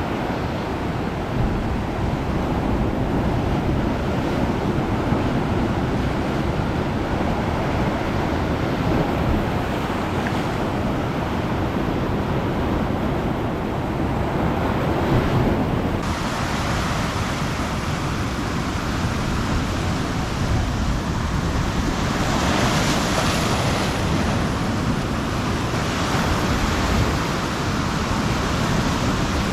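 Ocean surf washing onto a beach, a continuous hiss and rumble of breaking waves, with one wave breaking louder and brighter about three quarters of the way through.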